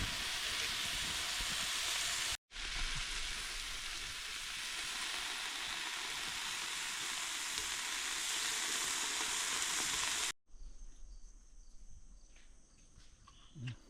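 Sausages sizzling in a cast iron pan over a campfire, a steady frying hiss broken by two sudden cuts. About three seconds before the end it gives way to a much quieter background with a high, steady insect trill.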